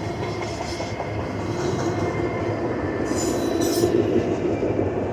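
Cars of a Norfolk Southern double-stack intermodal freight train rolling past, a steady rumble of wheels on rail, with a brief high-pitched screech about three seconds in.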